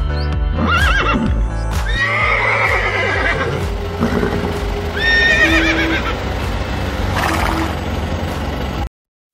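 Several horse whinnies with a quavering pitch, one about a second in, a longer one around two to three seconds in, and another around five seconds in, over steady background music. All sound cuts out shortly before the end.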